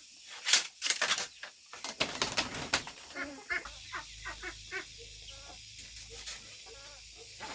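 Chickens clucking, with a run of short, sharp scraping or knocking strokes in the first few seconds.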